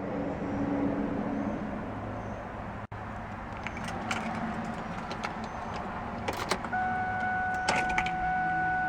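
2002 Ford Mustang's 3.8-litre V6 idling steadily. After a break about three seconds in come scattered light clicks, and near the end a steady electronic tone starts.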